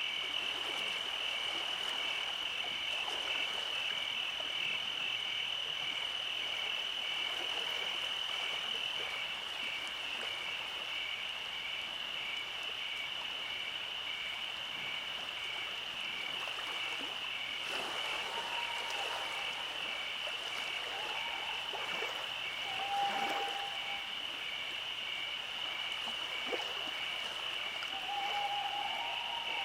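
Night chorus of frogs and insects: a steady high trill with an evenly pulsing note just beneath it. In the second half, a few short lower calls come in, each dropping slightly in pitch.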